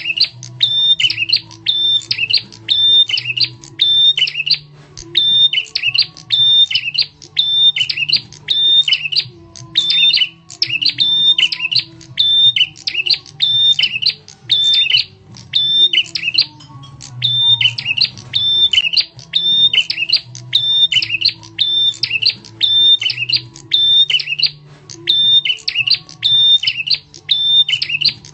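Prenjak (prinia) lure call: sharp, loud chirps repeated several a second in long runs, broken by short pauses, with a faint steady low hum underneath.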